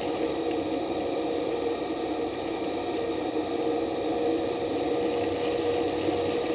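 Stick-welding arc burning steadily, an even crackling hiss with a steady hum underneath.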